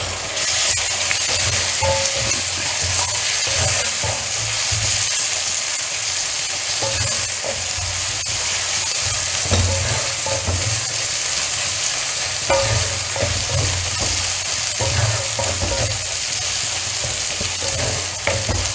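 Chopped onion, ginger and garlic frying in coconut oil in a wok, sizzling steadily, while a spoon stirs and scrapes through it; the sizzle gets louder just after the start as chopped tomato goes into the hot pan.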